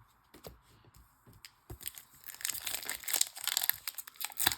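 Foil wrapper of a trading-card pack crinkling and tearing as it is handled and opened, starting after a few light clicks and growing denser and louder toward the end.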